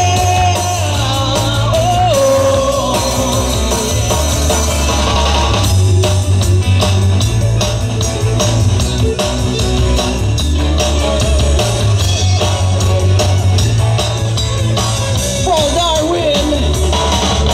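Rock band playing live through an instrumental break: electric guitar over bass and drums, with a bending lead line near the end.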